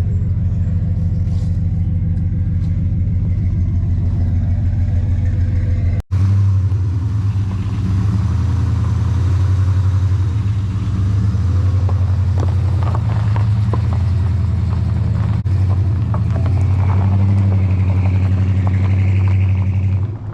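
Chevy Suburban running on the road, a steady low engine drone with road noise. The sound breaks off abruptly twice, about six seconds in and again past the middle.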